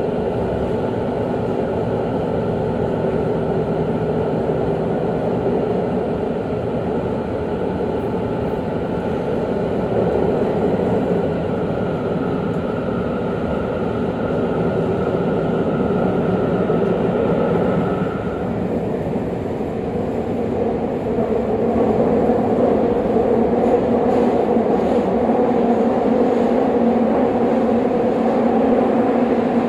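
Tobu 50000-series electric train running through a subway tunnel, heard from inside the car: a steady rumble of wheels on rail with a high motor whine that stops about two-thirds of the way through, after which the rumble grows louder.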